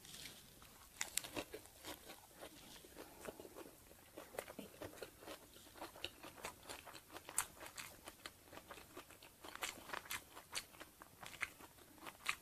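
A person chewing a mouthful of banh chhev, the crisp Cambodian rice-flour crepe, wrapped in fresh lettuce: faint, irregular crunching chews close to the microphone.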